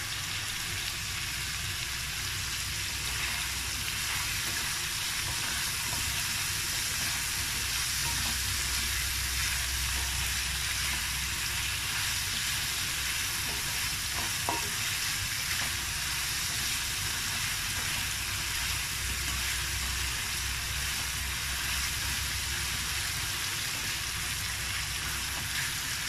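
Pork, onion, tomato and squash cubes sizzling steadily in a stainless steel sauté pan, stirred with a spatula.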